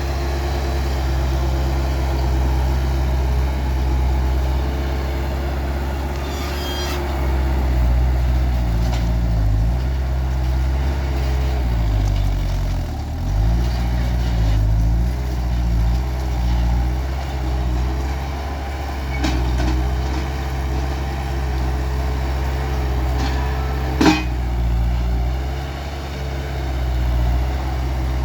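Skid steer engine running, its speed dipping and rising several times as it works, with one sharp metallic knock near the end.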